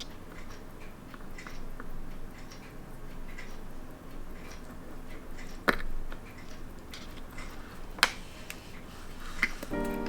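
Small, sharp metal clicks and ticks of watchmaker's tools touching the parts of a mechanical watch movement during disassembly, with two louder clicks about six and eight seconds in. Background music comes in at the very end.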